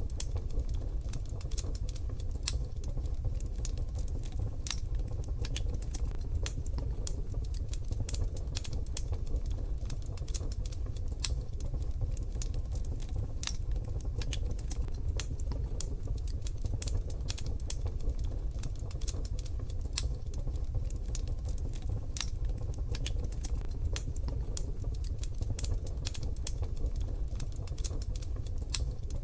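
Wood fire crackling in a wood-burning stove: irregular sharp snaps and pops, some close together and some spaced out, over a steady low rumble.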